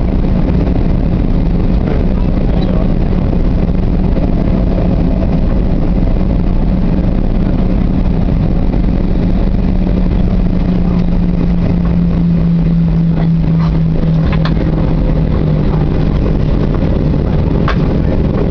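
Boeing 737-800's CFM56 jet engines running steadily, heard inside the passenger cabin as a loud, even rumble with a humming tone that dips slightly in pitch partway through and comes back. A few faint ticks come near the end.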